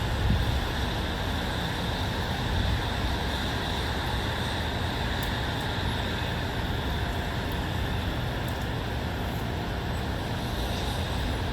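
Steady outdoor ambient noise: an even, low rumble of distant road traffic.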